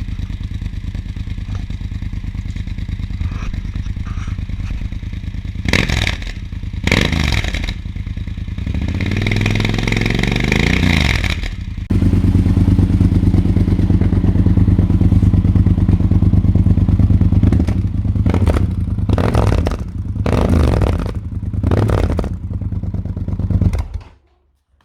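Yamaha XT1200Z Super Ténéré's parallel-twin engine through a GPR Furore aftermarket exhaust, idling with short throttle blips and one longer rev that rises and falls in the middle. The engine is switched off near the end.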